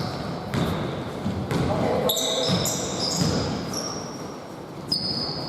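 Basketball game in a large hall: a ball bouncing on the court and sneakers squeaking in short high-pitched chirps, with voices echoing in the background.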